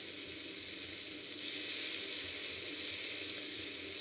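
Diced onion and tomato paste sizzling steadily in a hot stainless steel pot around a piece of venison shoulder as they brown lightly. The sound is an even frying hiss with no distinct knocks.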